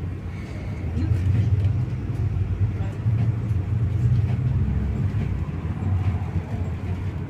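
MAZ-215 articulated city bus under way, heard from inside the cabin: a steady low rumble of diesel engine and road noise that grows louder about a second in and eases off after about five seconds.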